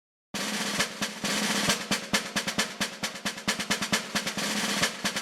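Snare drum playing a roll of quick, dense strikes, starting suddenly a moment in.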